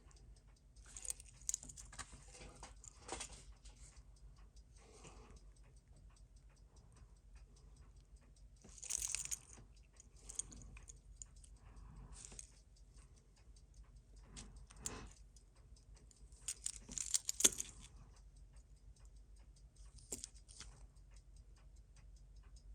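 Seiko 6139 automatic chronograph movement ticking close to the microphone, a fast, even tick. Handling clicks and rustles of the watch on the bench come and go, loudest about nine and seventeen seconds in.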